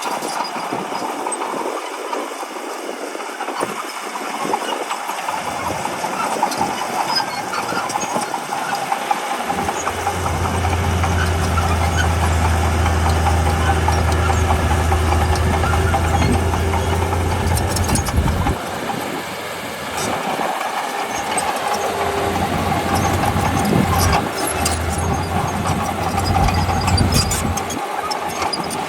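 Diesel engine of heavy earthmoving machinery running continuously at a steady pitch. A deep low drone swells about a third of the way in and drops away about two-thirds through, as the machine comes under load and eases off.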